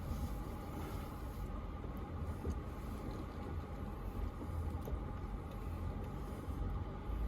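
Toyota 4Runner TRD Pro engine running low and steady with a faint whine as the truck crawls slowly over rocks, with a few faint ticks.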